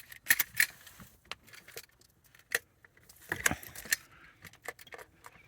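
Irregular light clicks and clatters of small hard objects being handled, with sharper ones about half a second in and around three and a half seconds in.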